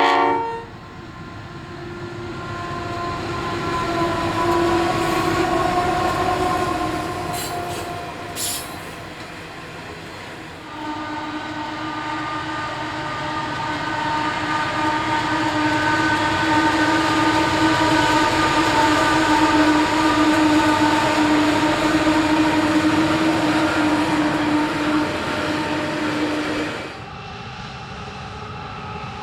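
Diesel freight locomotives on a coal train running under power, with a loud engine drone in steady stacked tones. The sound changes abruptly about eleven seconds in and again near the end, with a brief loud tone at the very start.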